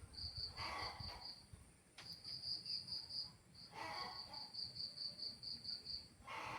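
Cricket chirping in runs of rapid, evenly spaced high pulses, about five a second, pausing briefly between runs. Three brief, softer, lower-pitched noises come in between.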